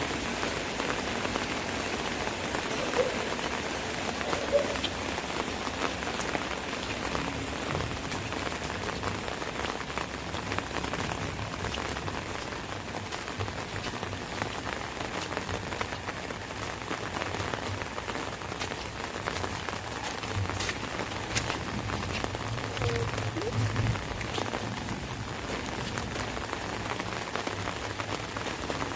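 Steady rain falling on an umbrella overhead, a continuous hiss dotted with the sharp ticks of single drops. A low rumble swells briefly past the middle.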